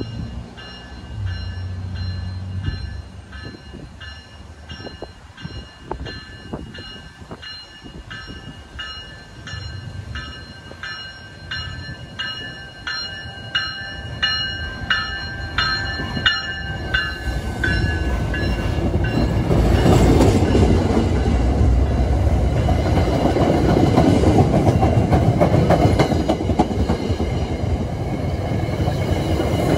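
MBTA commuter train coming into a station: its bell rings at about two strokes a second, dropping slightly in pitch as it passes about 17 seconds in. Then the train runs past loudly, a heavy rumble of wheels and cars with rapid clicking from the rails.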